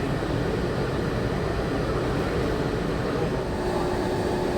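Walt Disney World monorail running, heard from inside the car: a steady rumble and hiss of the train in motion, with a steady hum coming in about three and a half seconds in.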